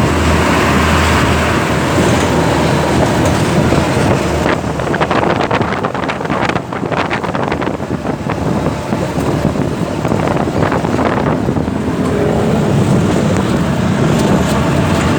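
Three-wheeled motor cart running along the road, its engine and road noise steady with wind on the microphone; from about four to eleven seconds in the ride turns to a busy rattling clatter, as over a rough stretch.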